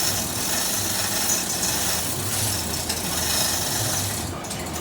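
A power tool running steadily with a hissing, grinding noise, which drops away about four seconds in.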